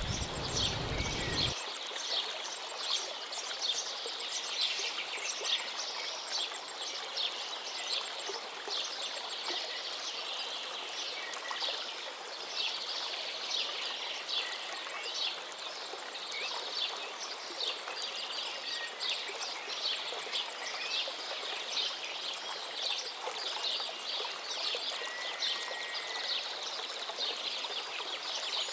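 A dense chorus of small songbirds chirping and twittering, many short rapid calls overlapping, over a steady hiss. A low rumble cuts off about a second and a half in.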